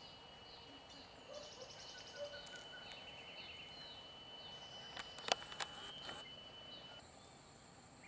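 Background birds chirping in short repeated notes, with a brief high trill about a second and a half in, over a steady thin high tone that stops about seven seconds in. A few sharp clicks a little after five seconds are the loudest thing.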